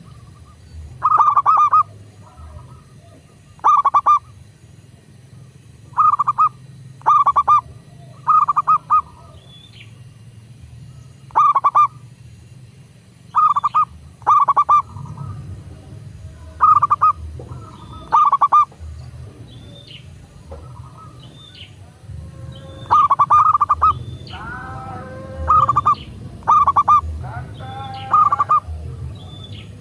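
Zebra doves cooing: short, loud, stuttering coos repeated every one to two seconds. A second, lower coo overlaps them in the last few seconds.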